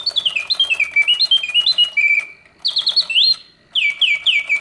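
Mechanical birdsong from a 1973 Reuge double singing bird cage: the bellows-driven whistle plays fast chirps and trills that glide down and up in quick series, with two short breaks about halfway and three-quarters through. Faint clicking of the mechanism runs beneath the song.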